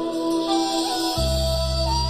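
Instrumental break of a Chinese-style ballad backing track: held melodic notes, with a deep bass note coming in a little over a second in.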